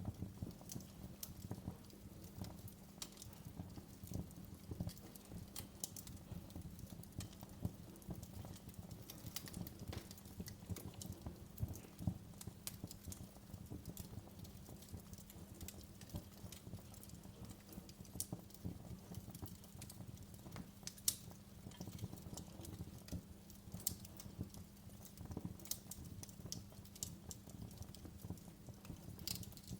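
Wood fire in a fireplace crackling, with irregular sharp pops over a low steady rumble. One pop about 21 seconds in stands out as the loudest.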